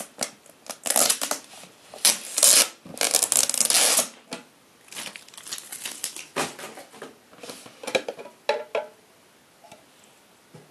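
Packaging of a GoPro HERO3 Black Edition being handled and opened, with loud crinkling and rustling during the first four seconds, then lighter rustles and a few clicks.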